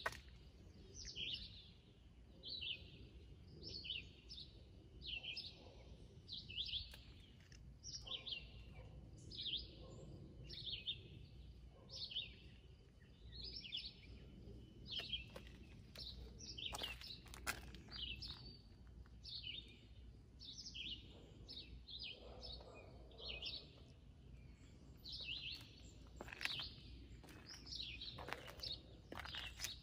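A songbird singing short, high chirping phrases over and over, roughly one a second, over a steady low outdoor rumble.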